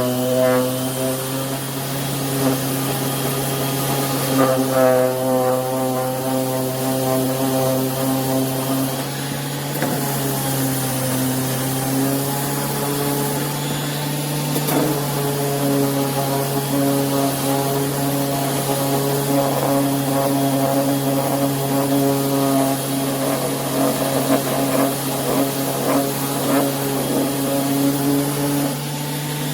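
Corded electric random orbital sander running steadily, a constant motor hum with a slight waver in pitch.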